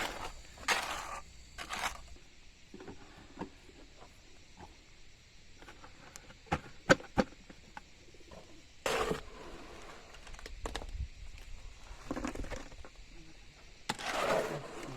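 Intermittent rustling with a few sharp clicks or snaps, the loudest a quick pair of clicks about seven seconds in.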